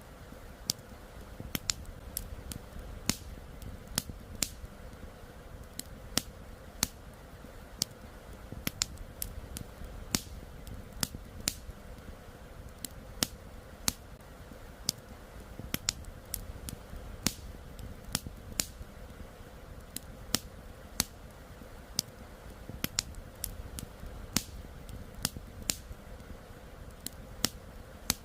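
Campfire crackling: wood popping and snapping in irregular sharp clicks, several a second, over a steady low rush of flowing river water.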